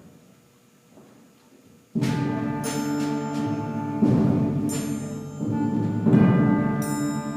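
School concert band begins playing about two seconds in with a loud held chord, then accented chords with percussion hits near four and six seconds.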